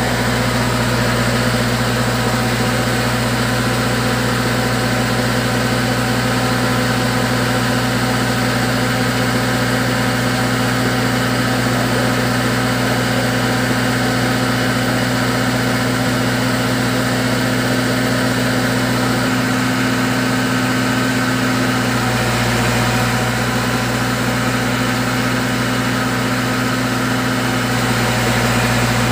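Fish-feed pellet machine running steadily, driven by its D4 engine, a steady engine drone with no change in speed.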